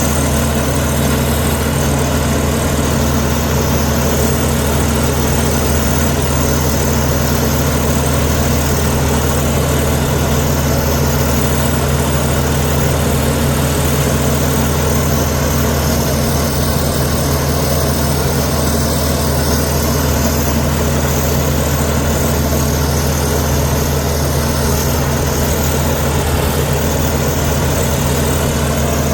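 Komatsu D61EX bulldozer's diesel engine running at a steady pitch, without revving up or down.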